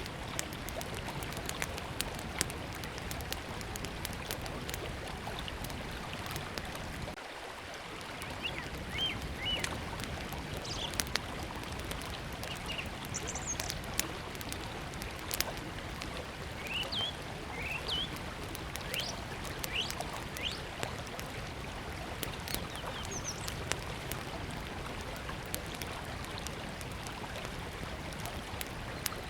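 Small wood campfire crackling, with frequent sharp pops, over the steady rush of a flowing river. Birds give short high chirps through the middle of the stretch.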